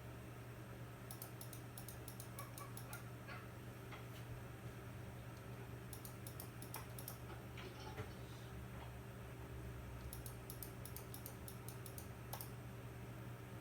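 Three short runs of rapid small clicks, over a faint steady low hum.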